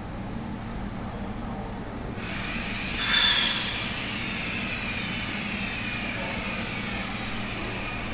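CNC laser sheet-cutting machine running: a steady low hum, joined about two seconds in by a high hiss, with a brief louder burst about a second later and then high whining tones that slowly fall in pitch.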